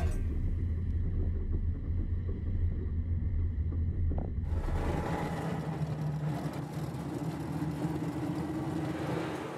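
Moskvich 411 four-wheel-drive car driving slowly, its four-cylinder engine giving a low rumble. About halfway through, the sound changes suddenly to that of the cabin on the move: a fuller road noise over a steady engine drone.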